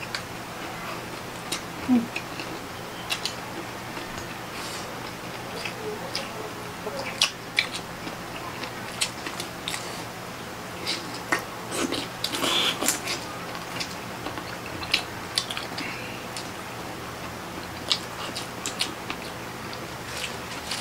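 Two people eating grilled octopus and shrimp by hand: irregular wet mouth clicks and smacks of chewing, with a denser run of sounds about twelve seconds in.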